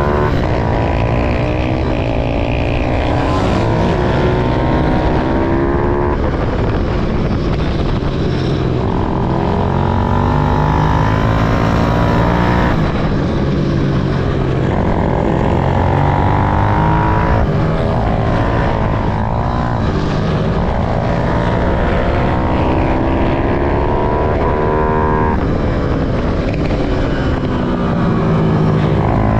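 Small pit bike engines being ridden hard on a track, climbing in pitch and dropping back again and again every few seconds.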